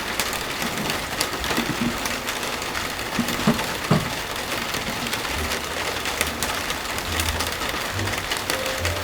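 Steady rain falling, a dense hiss with many sharp drop ticks.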